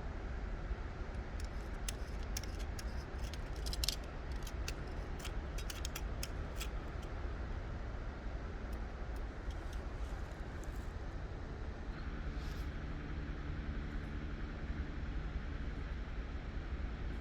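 Steady low rumble with a run of small sharp clicks and taps over the first seven seconds or so, then only a few more.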